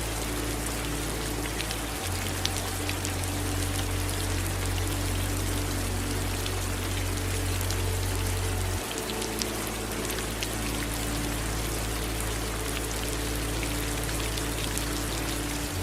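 Steady rain falling, with scattered sharp drop ticks and the sound of running water under it. A low steady hum lies beneath and shifts abruptly twice.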